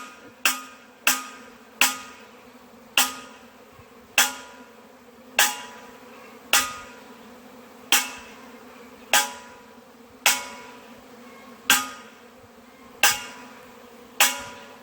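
A wrench banging on a metal pot: sharp ringing clangs, about two a second at first and then roughly one a second, over the steady buzzing of a honeybee swarm. The banging is meant to mimic an approaching thunderstorm so that the swarm drops from the high branches.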